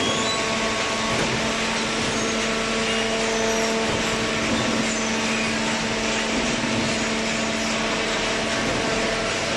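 Hydraulic baler running: steady machine noise with a constant electric hum from its motor and pump.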